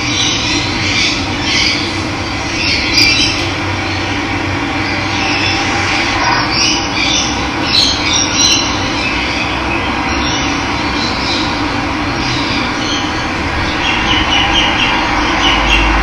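Steady rush of running water with birds chirping and calling over it.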